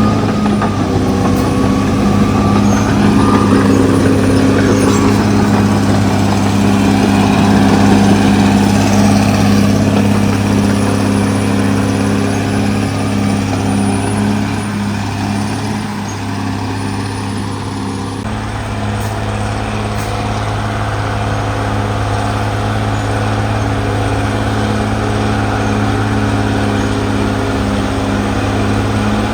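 Cat D6R XL bulldozer's diesel engine running steadily under load, with a sudden shift in its sound about eighteen seconds in.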